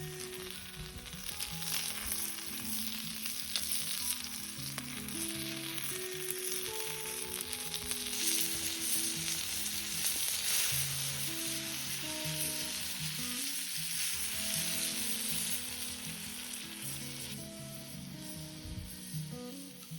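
Food sizzling as it fries in a pan over a campfire, a steady hiss that grows louder toward the middle and eases near the end, under quiet background music.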